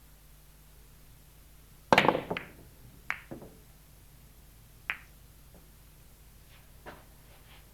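Sharp knocks and clicks over faint tape hiss and hum. A loud cluster of three or four knocks comes about two seconds in, then single, fainter clicks follow a second or two apart.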